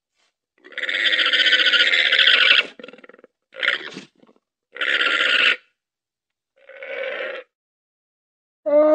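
Llama calling: a rasping call of about two seconds, then three shorter rasping calls with short silences between them. Near the end a clearer, pitched call begins.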